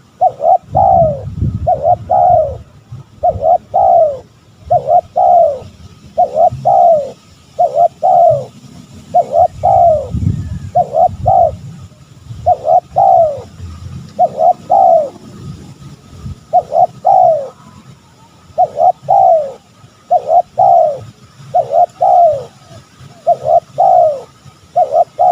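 Spotted dove cooing over and over, the advertising call of a male: short falling coo notes, mostly in pairs, a pair about every second and a half. A low rumble lies under the calls near the start and again about ten seconds in.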